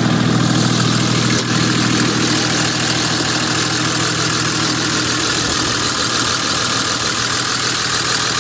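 A 5.9 Cummins inline-six turbodiesel fitted with a large Borg Warner S464 single turbo, idling steadily with the hood open.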